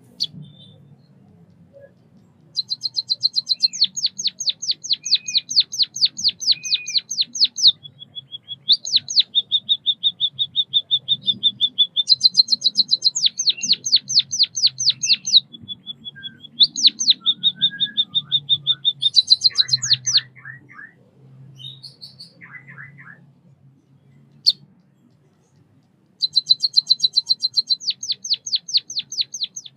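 White-headed munia singing: long trains of rapid, high repeated notes lasting several seconds each, alternating with denser, buzzier runs. Near the end there is a lull of a few scattered notes before another train begins.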